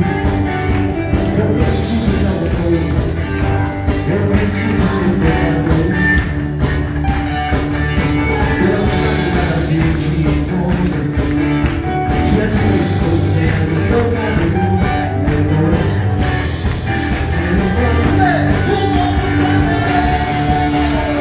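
Church worship band playing an upbeat Portuguese gospel song in a rock style, with singing over a steady drum beat.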